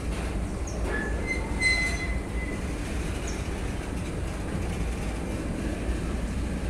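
Freight train wagons rolling past with a steady low rumble. A brief high-pitched wheel squeal comes about a second in and lasts about a second and a half, with a few short squeaks around it.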